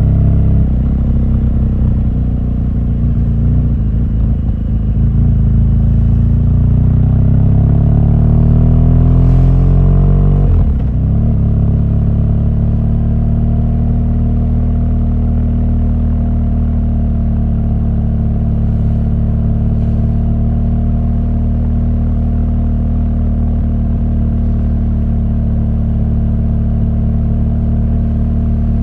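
BMW R1200GS boxer twin engine pulling under load, its note rising steadily for about ten seconds. The note then drops abruptly and settles into a steady cruising drone.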